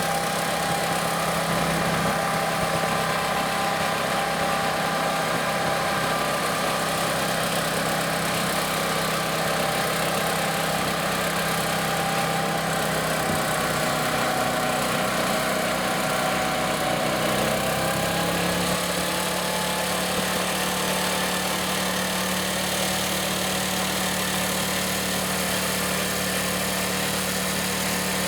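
Garden tractor engine running steadily. Its note shifts about two-thirds of the way through.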